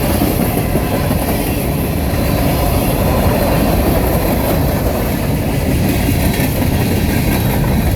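Union Pacific freight train's cars rolling past close by: a loud, steady rumble and clatter of steel wheels on the rails.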